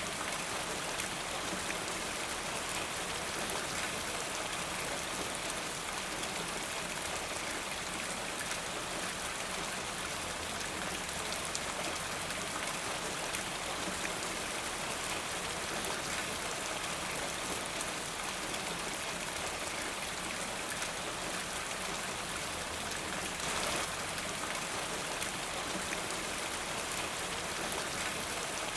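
Steady rainfall, with a dense patter of drops hitting a surface. A slightly louder gust of rain comes about 23 seconds in.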